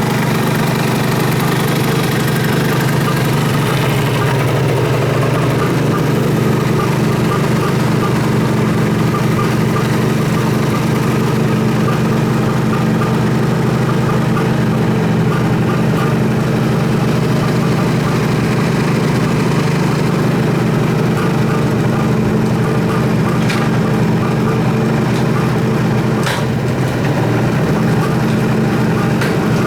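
Suzuki GT550's air-cooled two-stroke inline three-cylinder engine idling steadily, a sign that the engine runs.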